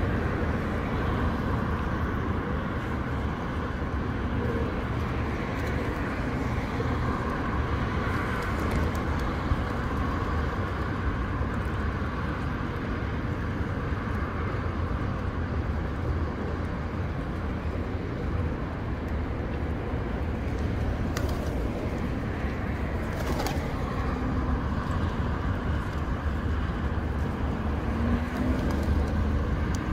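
Outdoor ambience dominated by a steady low rumble, with domestic pigeons faintly audible and two sharp clicks about two-thirds of the way through.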